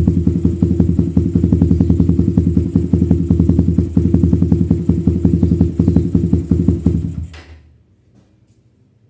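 Suzuki Satria FU's single-cylinder four-stroke engine idling through a Lone Rider aftermarket racing exhaust with a steady, even rapid beat, then switched off about seven seconds in and dying away.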